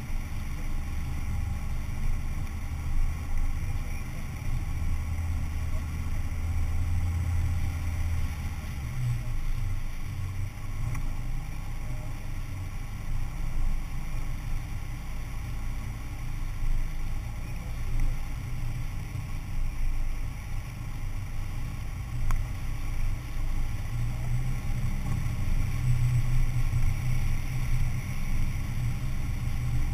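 Engine of a four-wheel-drive vehicle running at low speed, a continuous low rumble that rises and falls in strength.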